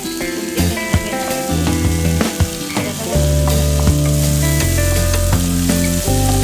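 Food sizzling and crackling as it fries in a hot pan, under background music with a changing bass line that gets louder about three seconds in.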